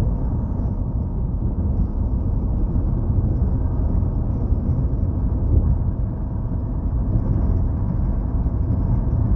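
Steady road and engine noise of a moving car, heard from inside the cabin as an even low rumble that does not change.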